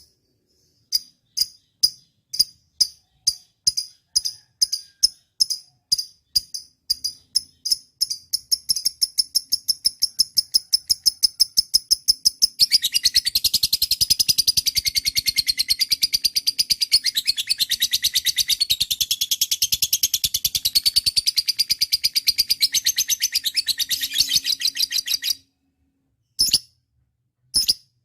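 Lovebird calling in sharp, high chirps that come faster and faster, then breaking about halfway into a long, continuous chattering trill that stops abruptly near the end.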